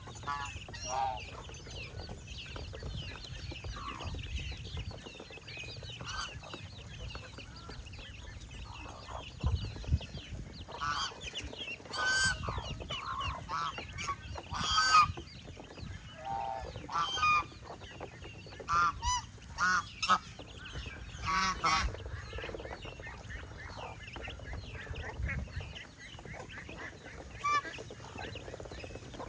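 Domestic geese honking in short, repeated calls scattered throughout, the loudest about twelve and fifteen seconds in, over faint high chirping and a low rumble.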